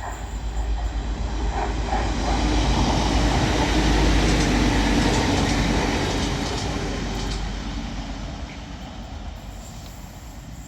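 TransPennine Express Class 185 diesel multiple unit passing through the station without stopping: the train noise builds to a peak about four seconds in, then fades as it goes away.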